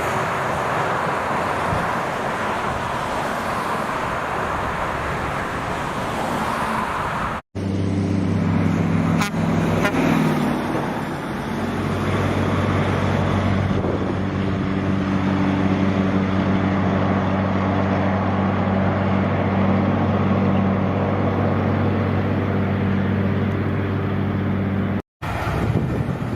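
Road traffic noise from passing heavy vehicles, then, after a cut, a big diesel truck's engine running at a steady, deep pitch with a brief dip a couple of seconds in.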